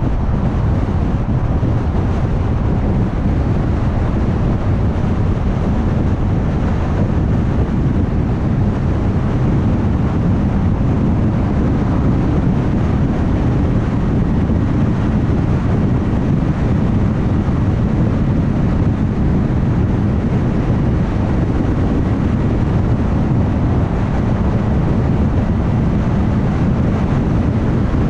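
Steady road noise of a car cruising at highway speed: tyre rumble on the road surface and wind noise, an even low rumble with no changes.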